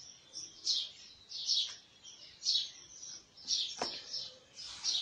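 A bird chirping repeatedly, short high chirps that fall in pitch, about one a second. A single sharp click comes about four seconds in.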